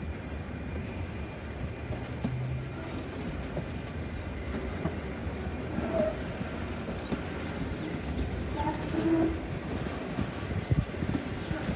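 Wooden-bodied heritage railway carriage rolling along the track: a steady low rumble with scattered knocks and clicks from the wheels on the rails.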